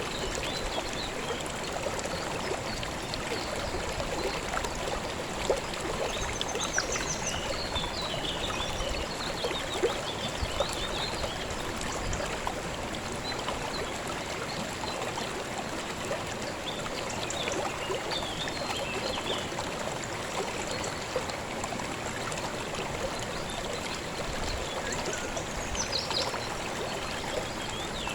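A river flowing steadily, with faint bird chirps a few times in the background.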